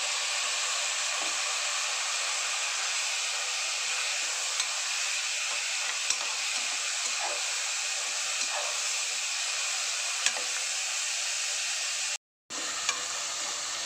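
Tomato, onion and chilli sizzling in hot oil in an aluminium pressure-cooker pot: a steady hiss, with a few light clicks of the metal slotted spoon against the pot as it is stirred. The sound cuts out for a moment near the end.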